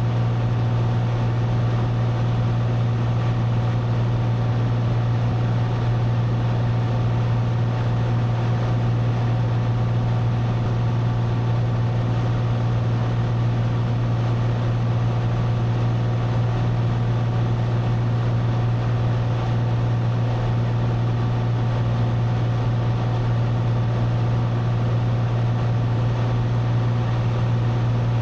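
Cessna 182's piston engine and propeller droning steadily in cruise, heard from inside the cabin.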